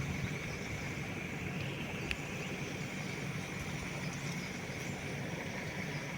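Engine running steadily with a low drone, a continuous high buzz above it, and one sharp click about two seconds in.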